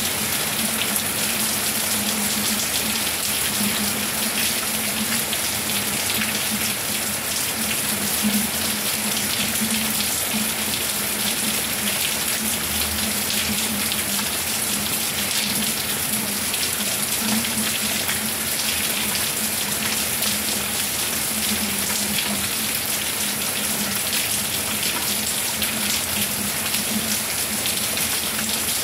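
Steady rain falling, an even patter of countless drops.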